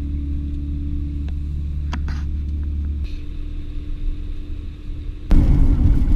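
Soviet-era van driving, its engine and road noise making a steady low rumble. About five seconds in the sound turns abruptly louder and rougher.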